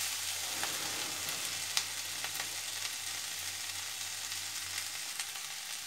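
Potato strips and spring onion stalks sizzling steadily in oil in a steel wok, with a few light knocks of a metal spatula against the pan, the clearest a little under two seconds in.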